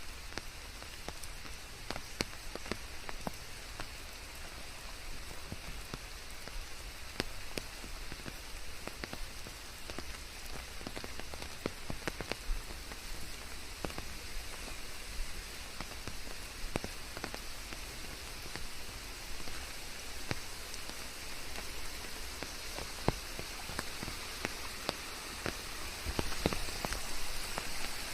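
Steady rain falling, with individual drops ticking irregularly against a surface close by. It grows a little louder near the end.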